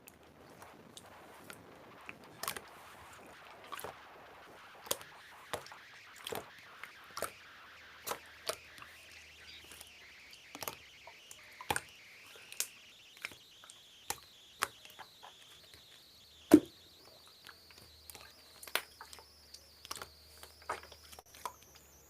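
Clear slime being pressed and stretched by hand, giving off irregular sharp clicks and pops, a few every second, with one much louder pop about two thirds of the way through.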